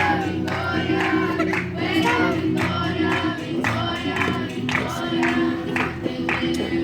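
Christian worship song: several voices singing together over instrumental backing with percussion.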